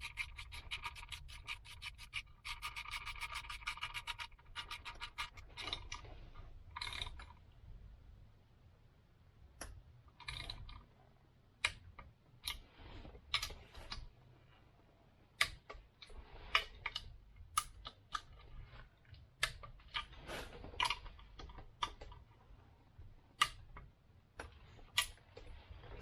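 Hand tools working the bolts of a motorcycle's stator cover. A ratchet clicks in a fast, even run for about four seconds, then come scattered single clicks and light taps of metal tools as the cover is fastened.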